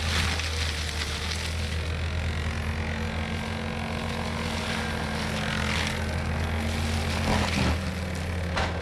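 Cat 259D compact track loader's diesel engine running steadily under load while working a forestry mulcher, with a hissing, crackling wash of shredded brush over it and a few louder swells near the end.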